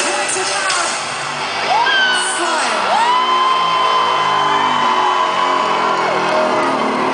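Live rock band music played over a PA, with a long high note that glides up and is held for about three seconds before falling away.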